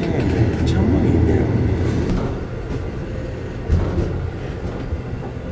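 Sleeper train carriage rumbling and rattling from the inside, with scattered clicks. The rumble eases about two seconds in, and there is a single sharp knock a little past halfway.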